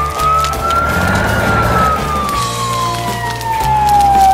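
Fire engine siren wailing as a cartoon sound effect: one slow sweep up in pitch and then down, starting to rise again at the very end. Background music with a repeating bass line plays underneath.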